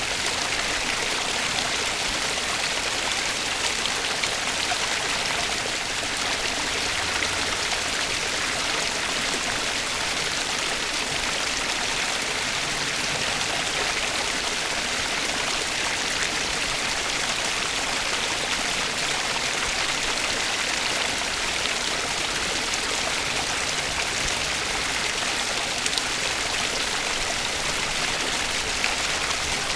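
Flowing stream water making a steady, even rush with no breaks or single splashes.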